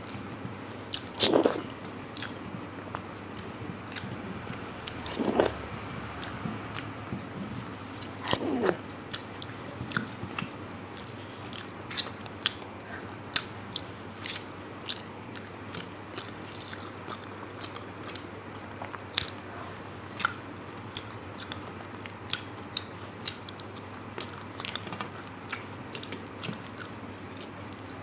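A person eating close to the microphone: chewing with many small wet clicks and smacks, and a few louder mouthfuls in the first nine seconds.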